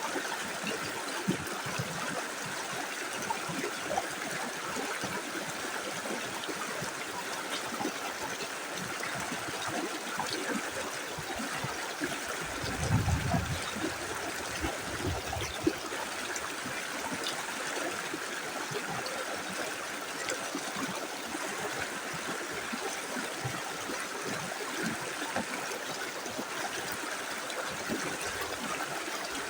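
Small river flowing steadily, an even rush of running water, with a brief low rumble for a few seconds about halfway through.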